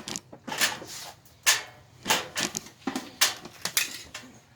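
A series of irregular knocks, clunks and rattles as a heavy MIG welder is set onto a metal welding cart and shifted into place.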